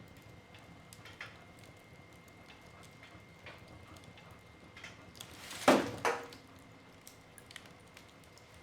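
Wood fire in a fireplace crackling, with scattered small pops from the burning logs. A little after halfway comes one sharp, loud crack, followed almost at once by a second, smaller crack.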